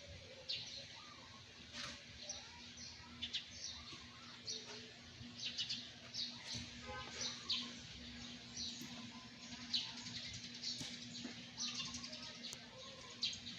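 Small birds chirping, short high chirps repeating every half second or so, with some lower call notes among them, over a steady low hum.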